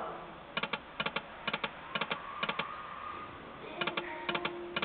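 Timber Wolf slot machine making its electronic clicking sound effects: quick clusters of clicks about twice a second, pausing briefly past the middle, with a faint held tone near the end.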